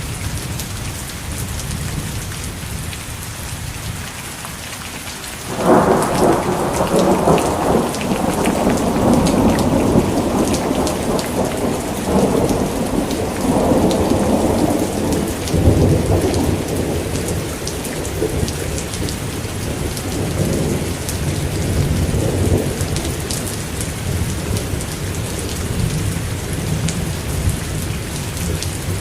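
Steady heavy rain hissing and pattering, with a thunderclap breaking in suddenly about six seconds in and rolling on, slowly fading over the next ten seconds into a low rumble.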